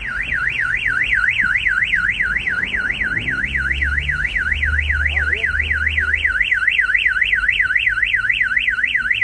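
Car alarm wailing, its pitch sweeping up and down rapidly, about four or five times a second, set off by the earthquake's shaking. A low rumble comes underneath for a few seconds in the middle.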